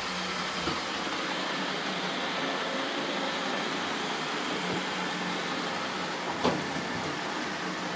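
Roomba robot vacuums running, a steady whirring hum of their vacuum motors and brushes, with one short knock about six and a half seconds in.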